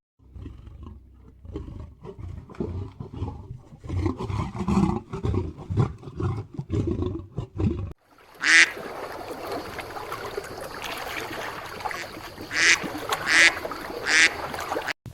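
Animal calls from two different clips. First comes a run of low, rapid, irregular calls. After a sudden cut about eight seconds in, there is a steady noisy background with four short, loud, high-pitched calls.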